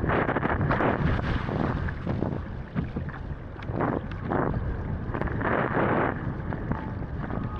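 Wind buffeting a camera microphone while wing foiling at speed. It comes in uneven gusts over a steady low rumble.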